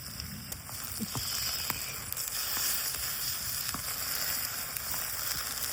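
Food sizzling as it fries in a pan over a campfire, the hiss growing louder about a second in, with scattered sharp pops.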